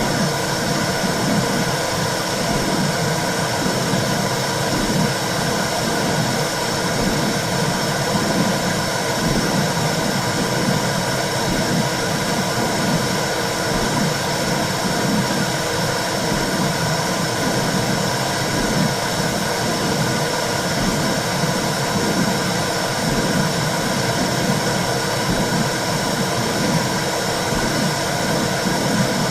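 Womb sound for soothing a baby: a steady rushing noise with a low, rhythmic whooshing pulse beneath it, like blood flow and heartbeat heard from inside the uterus.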